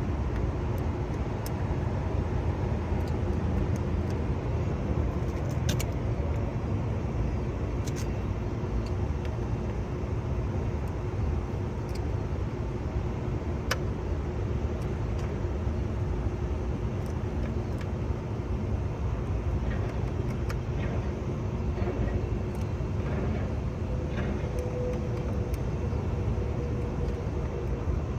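Steady low rumble with a faint steady hum, broken by a few light clicks.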